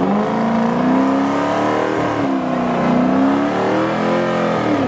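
Car engine held at high revs during a burnout, its pitch rising and falling as the throttle is worked.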